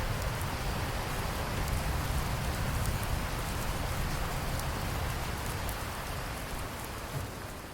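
Steady rain falling, a dense continuous hiss with a deep rumble underneath; it begins to fade near the end.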